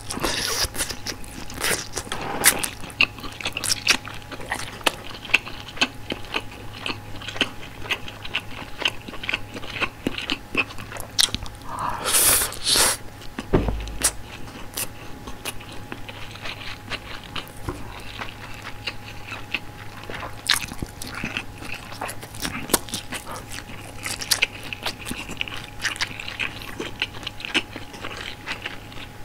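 Close-miked chewing and biting of frank sausages and rice: a steady run of wet, crackly mouth clicks and small crunches, with a brief louder rush of noise about twelve seconds in.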